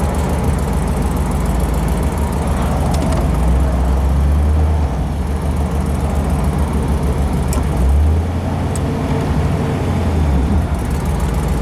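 The rebuilt 292 V8 of a 1955 Ford Thunderbird idling smoothly, heard from inside the car, its low rumble swelling a little twice, with a few faint clicks.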